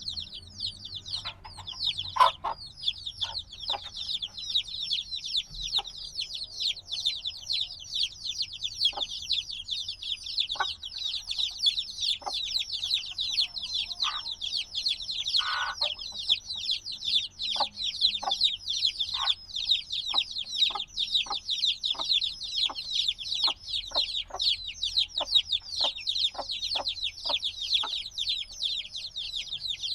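A brood of chicks a few days old peeping nonstop, many short, high, falling peeps overlapping into a continuous chorus. Short lower notes come in now and then, repeating about twice a second through the second half.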